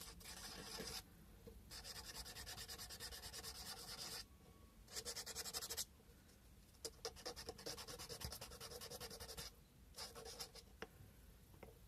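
Sandpaper rubbed over a carved cow-bone fish hook in quick, short back-and-forth strokes, in spells of one to a few seconds with brief pauses between.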